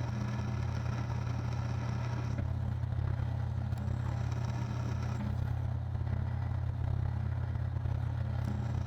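Electric machine-tool motor running steadily with a low hum while a drill bit bores a deep hole in a solid 4140 steel block.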